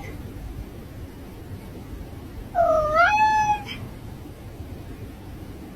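A cat gives one drawn-out meow, about a second long, near the middle; its pitch dips and then rises and holds.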